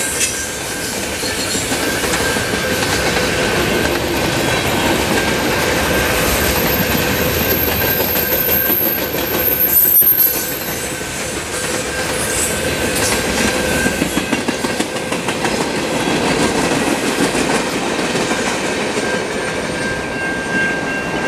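Freight train cars rolling past at speed: steady rumble and clatter of steel wheels on the rails, with a thin steady wheel squeal and a high whine for several seconds in the first half.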